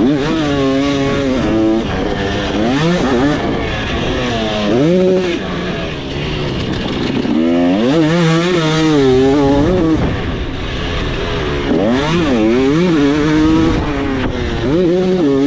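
2026 KTM 300SX single-cylinder two-stroke dirt bike engine under hard throttle, revving up and dropping back again and again as the rider opens and closes the throttle, with about seven rising and falling surges in pitch.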